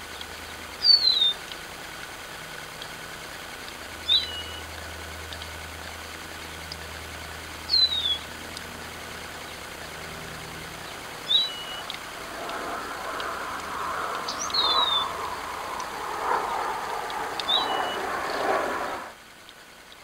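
A small bird gives a short, high call that slides downward and ends in a brief level tail, six times at intervals of three to four seconds. From about twelve seconds in, a louder rough rustling noise joins, and everything cuts off suddenly about a second before the end.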